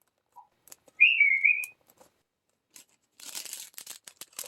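A pet parrot gives one short wavering whistle about a second in, sounding tinny through a smart speaker's intercom. From about three seconds in comes quieter crinkling with small clicks.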